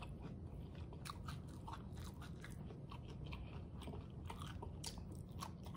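Faint, close-miked chewing of crunchy food, with many small, irregular crisp crunches.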